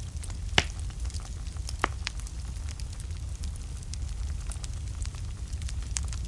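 Wood fire burning in a fireplace: a steady low rumble of flames with scattered sharp crackles and pops from the burning logs, the loudest pops about half a second in and just under two seconds in.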